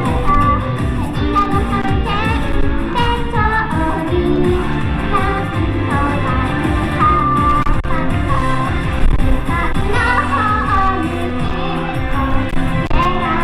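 Live pop song: a woman singing over loud amplified backing music.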